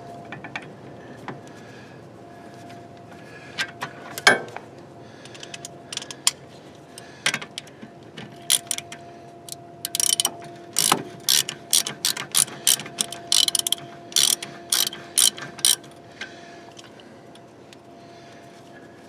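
Ratchet wrench clicking as a brake caliper bolt is backed out: a few scattered clicks at first, then a quick run of even clicks for several seconds past the middle that stops a few seconds before the end.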